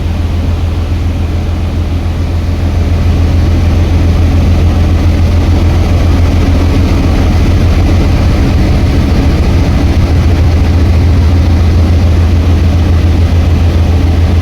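Large ship's engine running with a steady low drone, getting somewhat louder about three seconds in.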